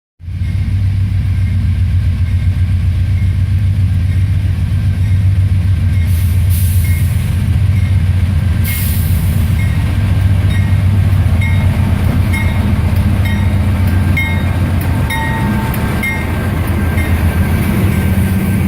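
Slow CSX manifest freight train rolling past, with a steady low diesel rumble and regular clicking of wheels over the rail joints that starts about eight seconds in.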